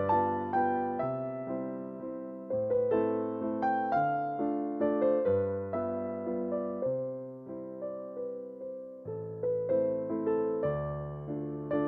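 Background piano music: a gentle melody of struck notes over slow bass notes.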